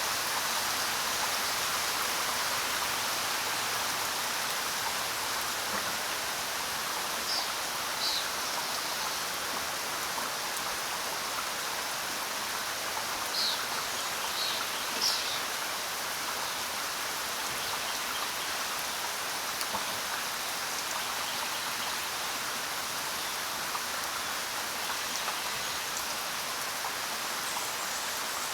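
Steady rain falling on the ground, a dense even patter of drops. A few brief, sharper high sounds stand out around the middle.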